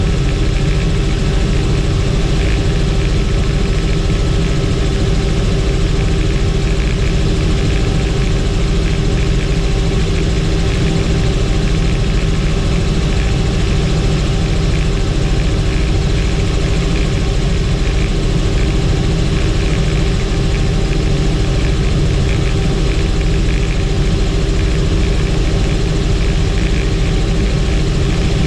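Helicopter turbine and rotor noise heard from inside the cabin: a loud, steady drone with a low rumble and a constant whine.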